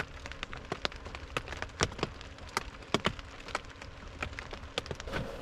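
Rain falling on the camper's tarp roof: a steady patter with many individual drops landing as sharp, irregular taps. A faint steady hum runs beneath.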